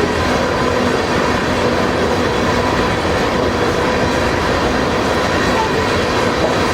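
Freight cars of a loaded crude oil train rolling steadily past: continuous wheel-on-rail noise with a faint, steady metallic whine running through it.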